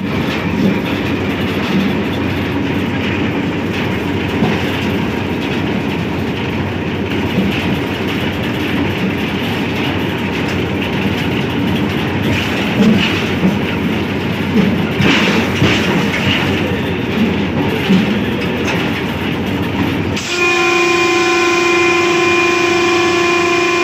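HBU 20 locomotive running at speed: a steady rumble with wheels clacking over the track. About 20 seconds in the sound changes abruptly to a long, steady multi-tone train horn blast.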